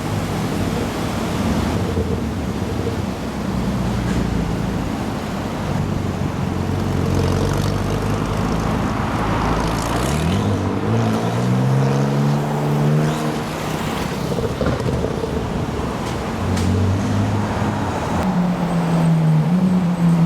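Supercar engines running as cars drive away from a meet. One engine's note rises sharply about halfway through, and another revs up near the end.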